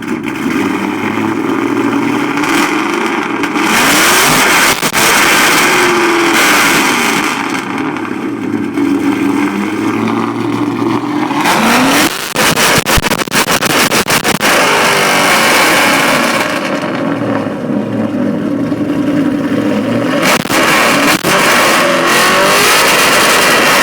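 Straight-piped 2008 Ford Mustang GT's 4.6-litre V8 being revved again and again, really loud, its pitch climbing and falling back with each rev.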